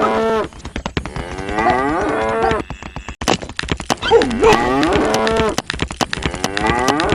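Cattle mooing: several long calls one after another, each bending up and down in pitch. A rapid clicking runs underneath.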